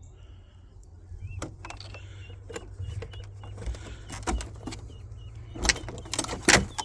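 Knocks, clicks and rattles of a ducklings' brooder box being opened and handled, the loudest two near the end, with ducklings peeping in short, high, repeated chirps.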